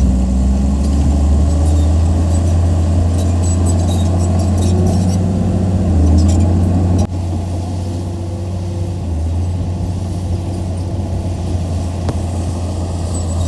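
Heavy diesel engine of earthmoving equipment running steadily with a deep drone and some light metallic clinking. The sound drops abruptly about halfway through, then runs on a little quieter.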